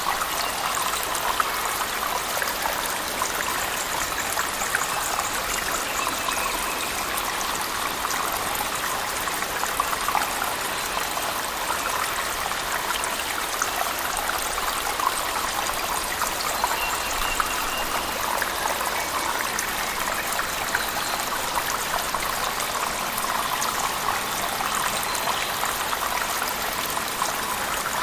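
Waterfall pouring in a cave, mixed with heavy rain: a steady, even rush of water with many small drops splashing through it.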